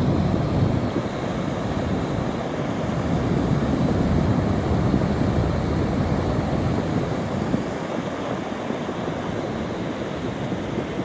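Steady rushing of water flowing down a rain-swollen wadi, easing a little about two-thirds of the way through.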